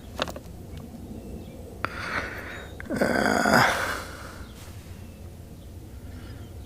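Light clicks and handling noises from parts of a boat's remote control being worked on by hand, with a short breathy noise about three seconds in.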